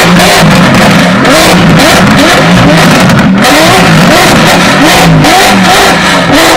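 Several Mercedes-AMG V8 sports cars revving at once. Their throttle blips rise and fall several times a second and overlap into one continuous, very loud din.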